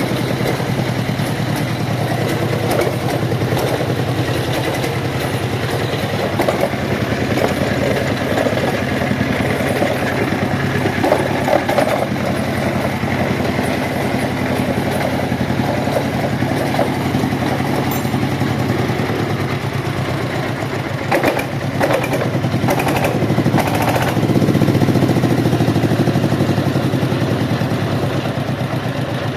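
Jiang Dong JD30 single-cylinder diesel engine running steadily. A few sharp knocks come about two-thirds of the way through, and the engine runs a little louder after that.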